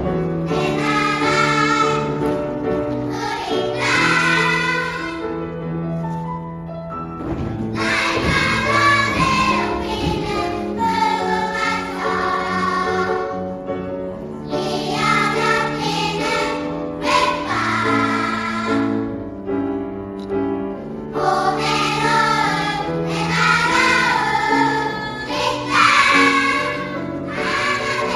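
Choir singing in sustained, blended phrases, with short breaths between phrases about six seconds in and again about twenty seconds in.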